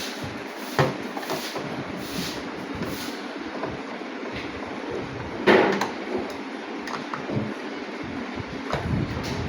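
Several sharp knocks and clatters over a steady background noise; the loudest knock comes about five and a half seconds in.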